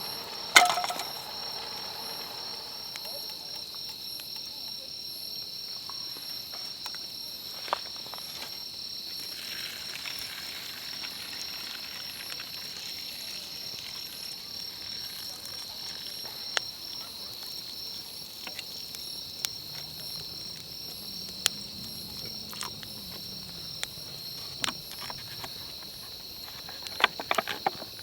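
Steady, high-pitched insect chorus outdoors, with scattered sharp clicks and knocks over it: a loud one about half a second in and a quick cluster near the end.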